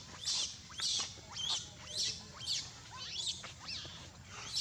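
Baby monkey screaming in distress, a rapid series of shrill rising squeals about two a second; the infant has a hurt leg and is calling for help.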